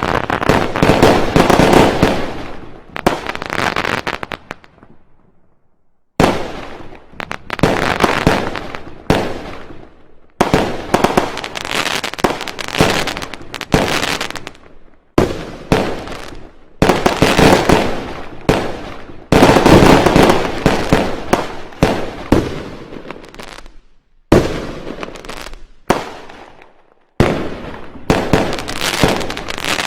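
Fireworks going off in rapid volleys of bangs and crackles, several seconds at a time, with sudden breaks between volleys.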